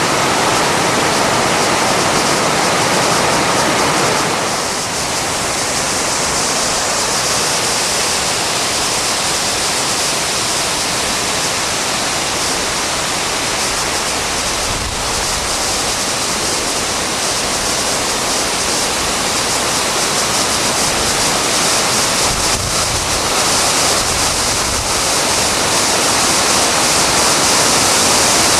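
Waterfall: a steady rush of falling water, a little brighter and hissier after about four seconds.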